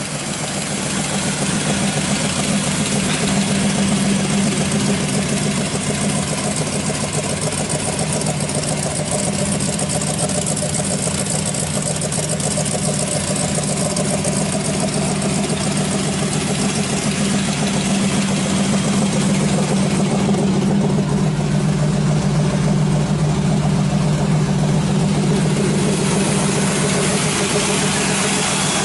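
383 stroker V8 in a 1937 Chevy truck idling steadily, growing a little louder over the first few seconds.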